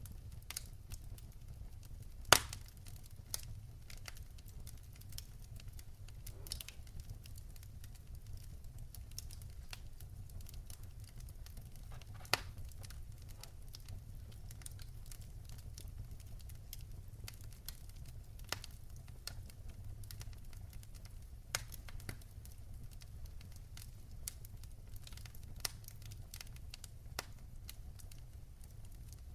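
Fire in a fireplace crackling, with scattered sharp pops over a steady low rumble; the loudest pop comes about two seconds in, another about twelve seconds in.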